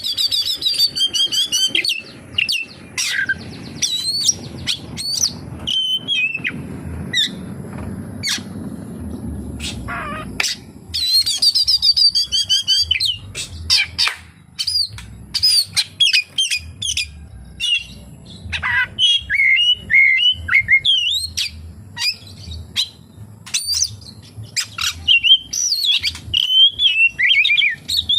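Oriental magpie-robin singing continuously: a loud, varied run of whistles, rapid trills and chirps, packed with phrases mimicked from other birds.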